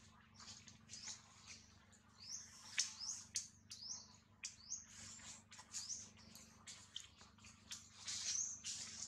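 Small birds chirping: short, high, hooked chirps and ticks, about two a second, over a faint steady low hum.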